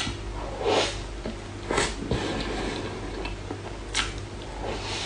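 Close-miked eating of a strawberry mousse dessert: three short wet bursts of slurping and chewing, each under a second, over a steady low hum.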